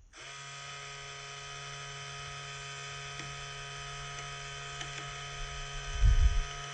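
Small electric winch motor on an RC crawler whining at a steady pitch as it reels in. A low thump comes about six seconds in.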